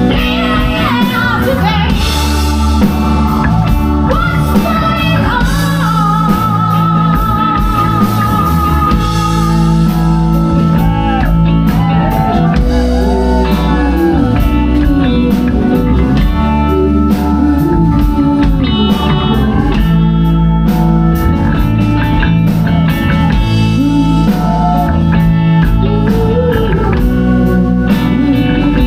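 Live rock band playing a blues-rock song, with a lead electric guitar that holds and bends long notes over bass and drums.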